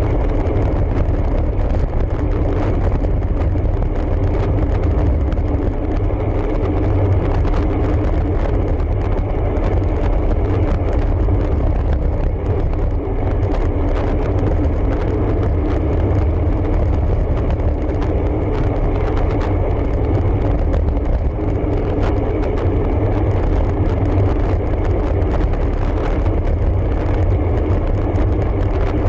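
Road bike riding: a steady, heavy wind rumble on the microphone, mixed with tyre and road noise.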